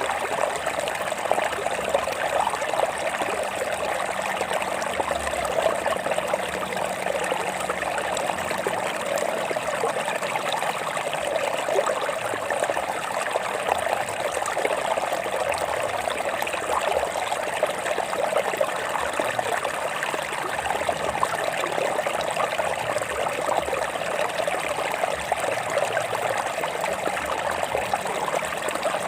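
Stream water trickling and splashing over rocks, a steady babble with no pauses.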